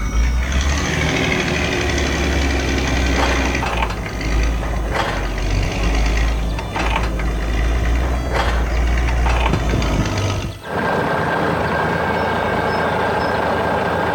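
Heavy construction vehicle engine running loudly with a deep rumble and a few sharp clanks; about ten and a half seconds in it switches to a steadier, higher-pitched mechanical hum with a held tone.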